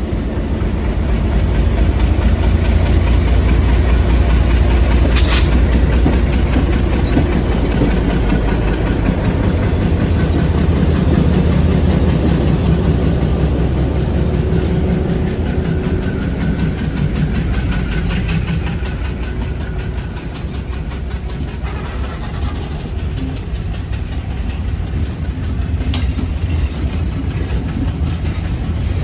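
Diesel-hauled passenger train running on the rails: a heavy, steady low rumble of engine and wheels, louder in the first half and easing a little later. Two sharp clicks stand out, one about five seconds in and one near the end.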